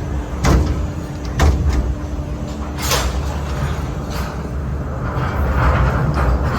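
Sky ride gondola running on its cable, with a steady low rumble and three sharp clacks about half a second, one and a half and three seconds in.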